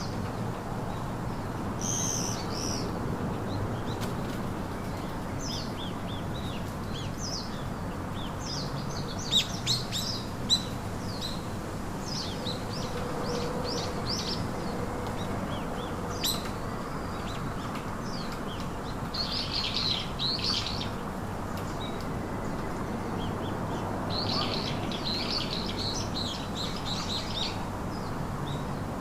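Several small birds chirping and trilling in quick, high-pitched phrases, with busier bursts of trills about two-thirds of the way through and near the end, over a steady background hiss. A few sharp clicks stand out about a third of the way in.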